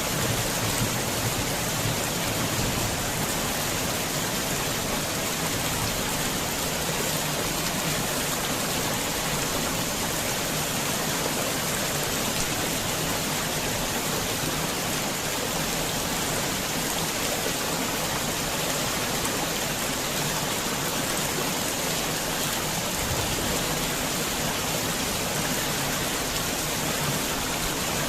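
Heavy rain falling steadily in a dense, even hiss. A low thunder rumble dies away in the first second or two.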